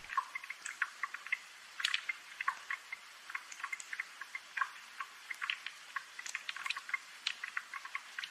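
Rain ambience of irregular light drips and taps, several a second, with clear high plinks and almost no low rumble.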